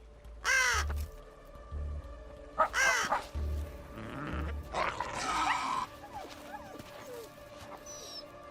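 Two short, harsh, caw-like animal calls about two seconds apart, then a hissing stretch, over background music with a slow, deep drum pulse that stops partway through.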